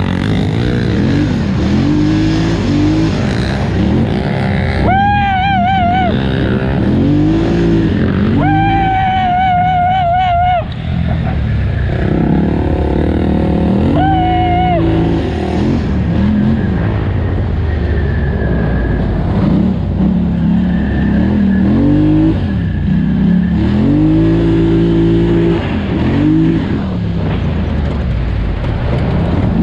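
Polaris Scrambler 1000 XP ATV's twin-cylinder engine under race throttle, the revs rising and falling over and over as the throttle is opened and eased. In a few short stretches a higher-pitched wavering whine rides over it.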